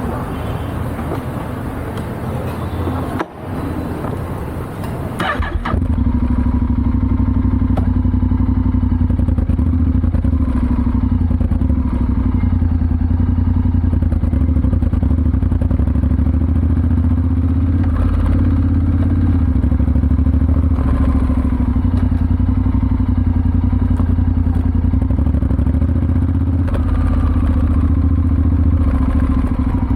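Honda X-ADV's 745 cc parallel-twin engine breathing through an SC-Project SC-1R slip-on with the dB killer fitted: it comes in suddenly about five seconds in, after a few seconds of wind-like noise, and then idles steadily.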